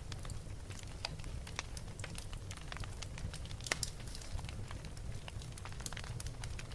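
Wood fire burning in a fireplace: irregular sharp crackles and pops over a steady low rumble of the flames, with one louder pop near the middle.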